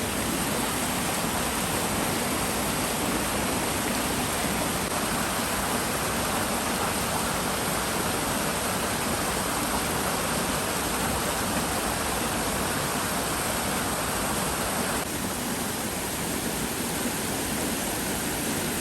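Steady rush of a river running full after rain, tumbling over rocks. The water noise changes slightly in tone about fifteen seconds in.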